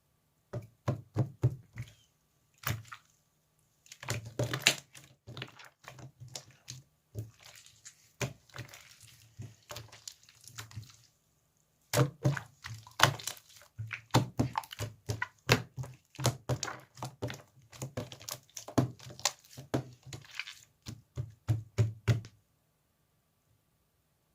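Slime being pressed and poked by hand, giving runs of sticky popping and crackling clicks. It pauses briefly about 3 seconds in and again about 11 seconds in, and stops about 22 seconds in.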